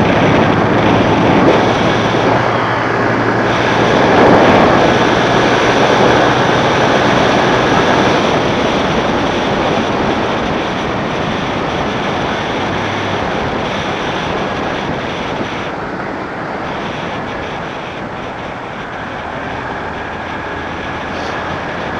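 Motorcycle riding noise: wind rushing over the microphone with the engine running underneath. The engine's steady drone drops out about halfway through, and the noise eases off over the second half.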